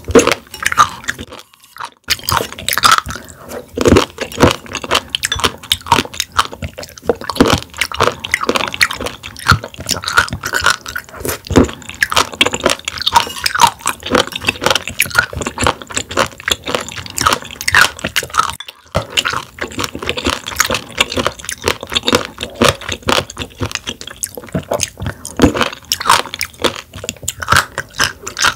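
Close-miked chewing of raw warty sea squirt (Styela plicata): dense, rapid crackling clicks of the tough, rubbery pieces being bitten and chewed, with two short breaks, one near the start and one about two-thirds through.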